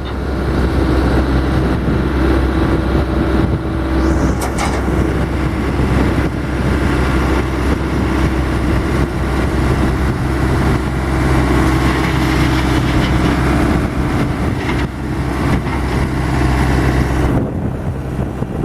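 New Holland LB75 backhoe loader's diesel engine running steadily; about 17 seconds in, the higher, noisier part of the sound drops away.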